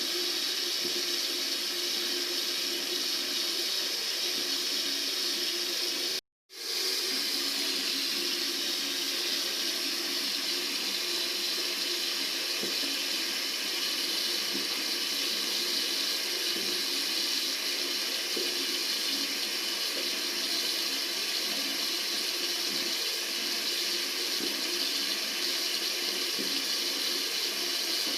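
Tap water running steadily. About six seconds in it cuts out to silence for a fraction of a second, then resumes at once.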